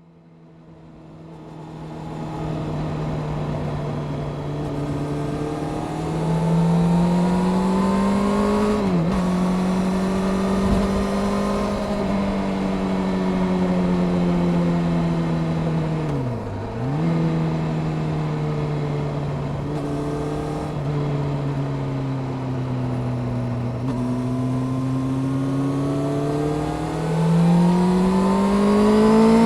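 Honda CBR600F Sport's inline-four engine running on the road, its note rising and falling with the throttle. There are two brief sharp dips in pitch about 9 and 16 seconds in, and the note climbs again near the end.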